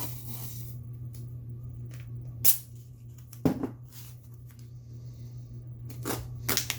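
A few sharp clicks and knocks of small objects being handled, about two and a half, three and a half and six seconds in, over a steady low hum.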